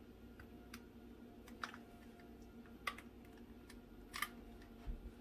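Faint, scattered light clicks and taps, about five of them, from kitchen utensils and a container being handled, over a low steady hum.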